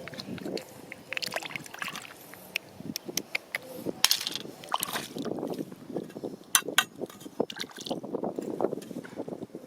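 Shallow river water sloshing and splashing, with many sharp clicks and knocks of stones striking one another.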